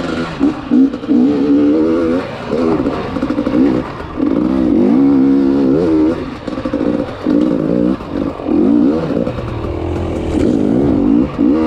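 Enduro motorcycle engine revving up and down over and over as the throttle is worked on and off, with short dips where the throttle closes.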